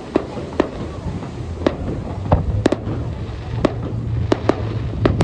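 Fireworks going off: about ten sharp bangs at irregular intervals, some in quick pairs, over a continuous low rumble.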